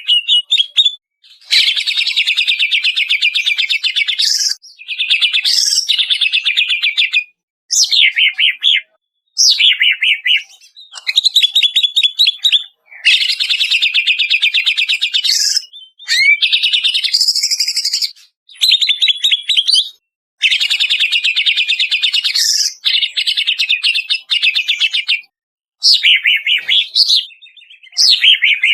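Cucak ijo (greater green leafbird) singing loudly in a run of phrases, each a second to three seconds long. The phrases are made of rapid chattering trills and sweeping whistled notes, with brief pauses between them.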